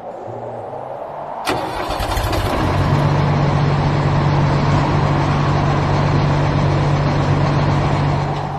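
Cartoon vehicle engine sound effect: a sharp click about one and a half seconds in, then the engine starts up and runs at a steady low hum, dropping away near the end.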